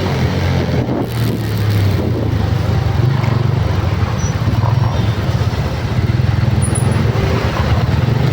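Motor vehicle engine running steadily, with a low hum under constant road or traffic noise; the engine note rises a little about two seconds in.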